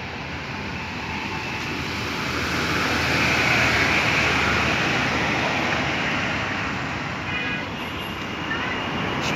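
Road traffic noise, with a vehicle passing by that swells to its loudest about three to five seconds in and then fades.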